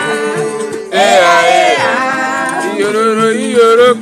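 A man singing long, wavering held notes over music.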